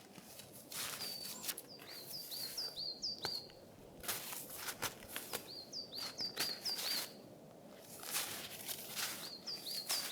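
A small songbird singing three short phrases, each a quick run of high, up-curving chirps, about a second in, in the middle and near the end. Between and under the phrases come bursts of crunching, rustling noise.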